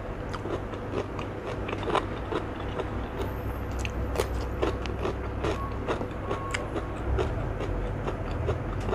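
Close-miked eating of raw cucumber: crisp bites and wet chewing clicks, over a steady low hum.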